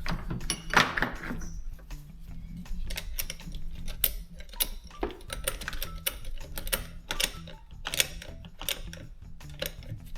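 Irregular metallic clicks and clinks of hand tools at the car battery's negative terminal as it is reconnected, the loudest about a second in, over quiet background music.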